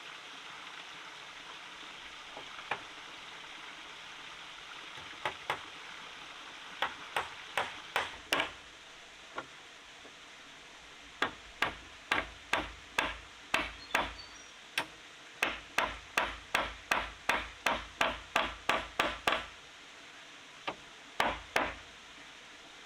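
A hand tool striking wood again and again in sharp single blows, as in building work. A few scattered strikes come first, then a steady run of about two a second for some eight seconds, then two more near the end, over a faint steady hiss.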